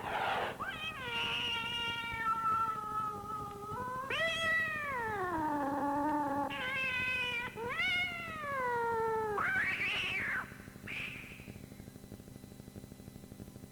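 Sound-effect recording of a cat yowling: a run of long, drawn-out meows that slide up and down in pitch, followed about ten seconds in by a short breathy, hiss-like burst. After that it goes quiet apart from a faint hum.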